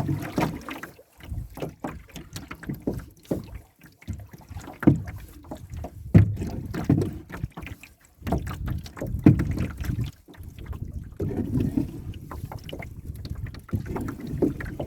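Canoe being paddled: water-and-paddle strokes about every two to three seconds, with knocks and clicks on the hull.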